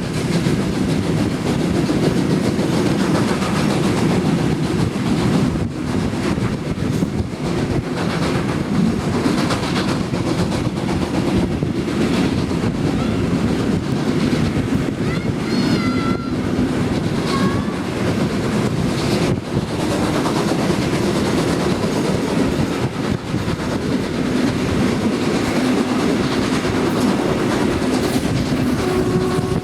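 A steam-hauled passenger train running, heard from aboard: a steady, deep rumble of wheels on rail with the rattle of the coach. A locomotive whistle starts sounding right at the end.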